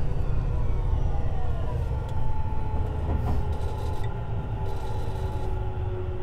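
Tobu 50090 series electric train running, heard from under the car floor: a heavy wheel-and-rail rumble with the traction motor and inverter tones gliding slowly down in pitch as the train slows.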